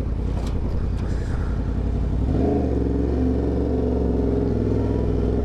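Yamaha R1's inline-four engine running while the bike is ridden, its note rising a little about two seconds in and then holding steady at a higher pitch.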